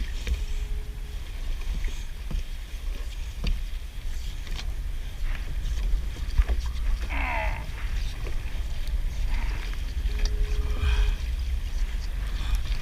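Wind rumbling on the microphone over water and the kayak, with scattered light knocks and clicks as a crab pot line is hauled up, and a brief wavering squeak about halfway through.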